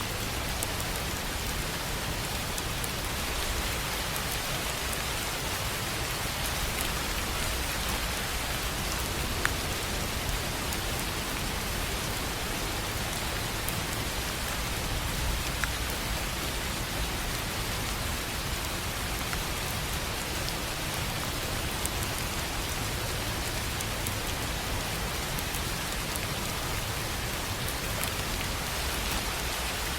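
Steady rain falling on a tin roof, an even hiss with a few sharper single drop hits standing out here and there.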